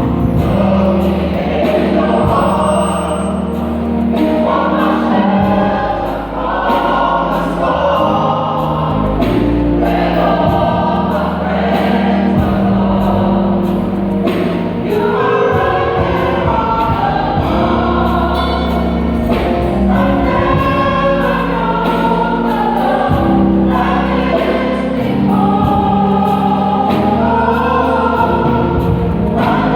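Gospel vocal group singing a slow worship song in harmony, over instrumental backing with sustained bass notes and light, steady percussion.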